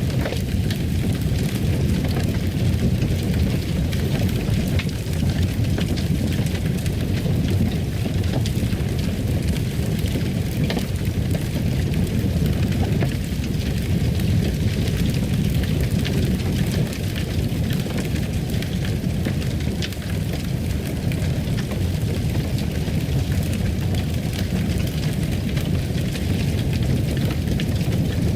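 Fire burning in a fireplace: a steady low rumble with scattered small crackles.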